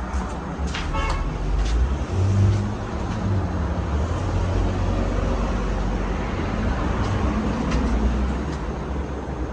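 Hampton Bay Cameron II Plus ceiling fan with a 188 mm spinner motor running steadily: a whoosh of moving air with a low rumble and a few faint ticks.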